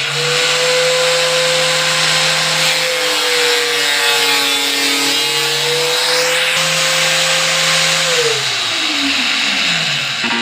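An electric angle grinder runs at full speed with a steady whine and rasp. About eight seconds in it is switched off, and its whine falls steadily in pitch as the disc spins down.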